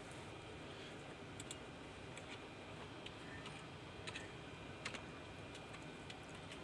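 Scattered light computer keyboard and mouse clicks, a dozen or so at irregular intervals, over a steady low background hiss.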